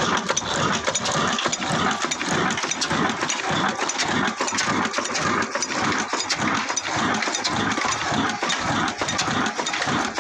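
Desi 'kala' diesel engine, a single-cylinder slow-speed type, running steadily with an even, regular beat.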